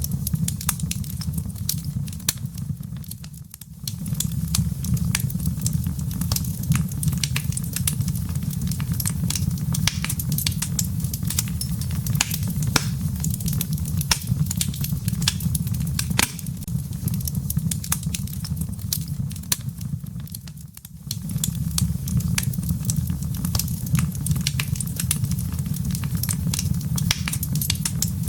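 Wood fire crackling in a fireplace: frequent sharp pops and snaps from the burning logs and embers over a steady low rumble. The rumble fades out briefly twice, about three seconds in and again about twenty-one seconds in.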